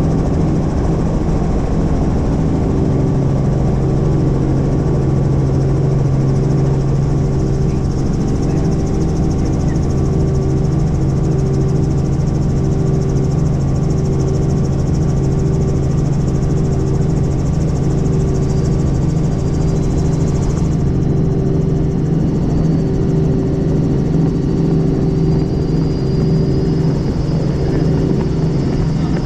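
Helicopter in flight: steady engine and rotor noise with an even low drone. A faint high whine rises slowly over the last several seconds.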